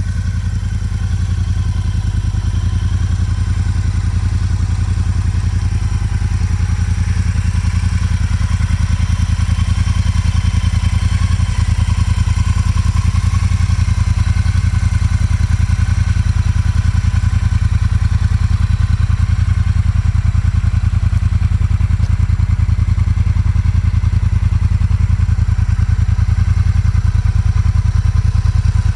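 Motorcycle engine idling steadily, a low even running beat that holds the same revs throughout.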